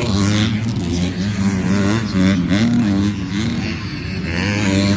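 250cc four-stroke motocross bikes racing on the track, their engines revving up and down as the riders work through the circuit.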